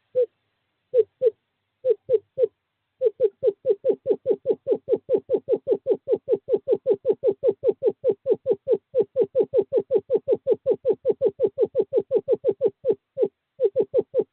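Male screech owl calling with short hooting notes held on one pitch. A few spaced notes run into a rapid, evenly paced series of about five a second for some ten seconds, then break up into spaced notes again near the end. This is a courtship call to draw the female to the nest box.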